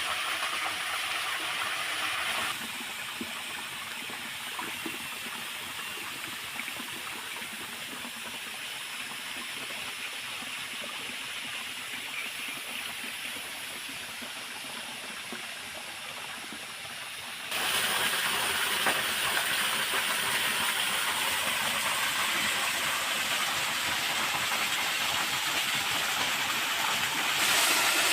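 Steady rush of stream water near a waterfall, an even hiss with no rhythm. Its level drops abruptly a couple of seconds in and jumps up sharply about two-thirds of the way through.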